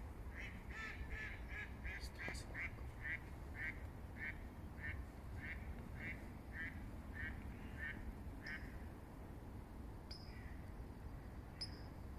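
A duck quacking in a long series of about fifteen calls that start quick and gradually slow down, ending about two-thirds of the way through. A few short high chirps follow near the end.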